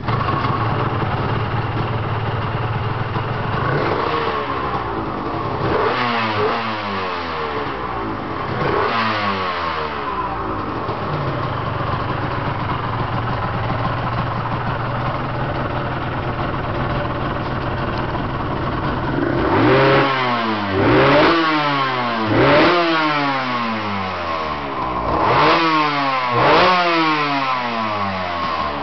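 Aprilia RS250's two-stroke V-twin engine catching and running, settling to a steady idle, with the throttle blipped several times: a few revs in the first ten seconds, then five quick sharp revs in a row near the end, each rising and falling back to idle.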